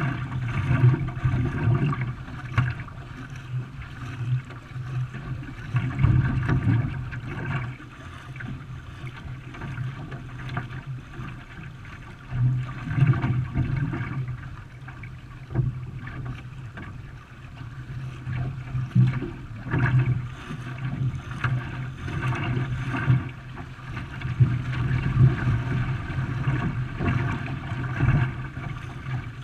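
Water splashing and gurgling around a canoe under way, swelling and fading in loudness every second or two.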